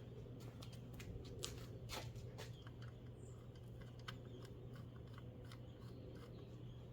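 Scattered light clicks and taps of hand tools and parts being handled, over a steady low hum.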